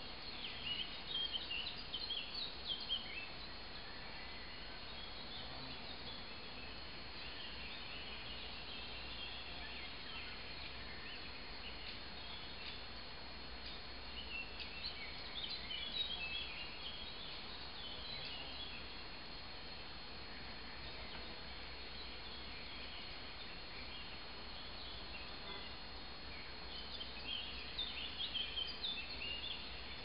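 Woodland ambience: a steady soft hiss of the open air, with a songbird singing bouts of quick high chirps three times, about a second in, around the middle, and near the end.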